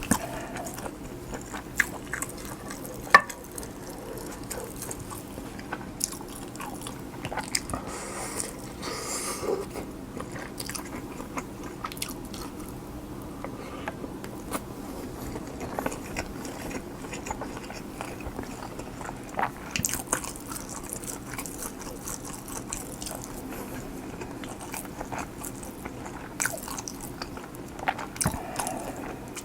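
Close-miked chewing and biting of kimchi fried rice topped with cheese and egg, wet chewing with crunchy bites and scattered sharp clicks over a steady low room hum.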